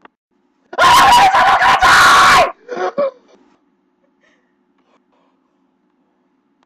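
A person screaming at full volume for about two seconds, loud enough to distort. It is followed a moment later by a shorter, softer yell.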